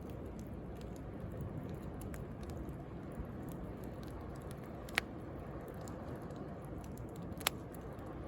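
Wood bonfire crackling with scattered small pops, two sharp louder ones about five seconds in and near the end, over a steady low rush of sea waves.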